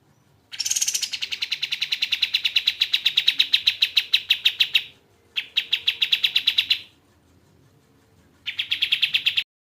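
Kapas tembak songbird singing three rapid trills of evenly repeated sharp notes, about ten a second: a long one of about four seconds, a shorter one, and a brief one near the end.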